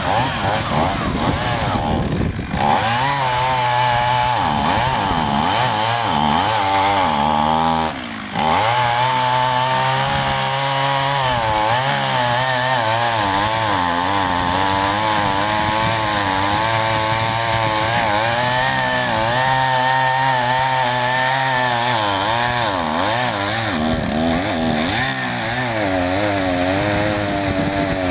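Chainsaw running hard while cutting a dead oak tree, its engine pitch wavering up and down under load. It briefly drops off twice, about two and eight seconds in.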